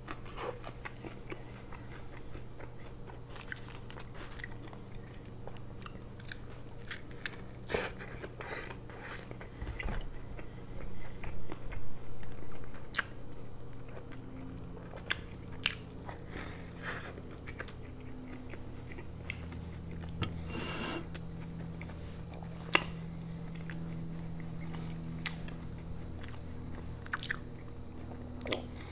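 Close-miked chewing and biting of a burger: soft bites and wet mouth clicks, scattered and irregular.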